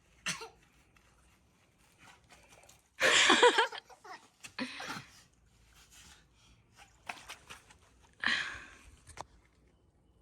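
Several short, sudden bursts of people's voices, the loudest about three seconds in.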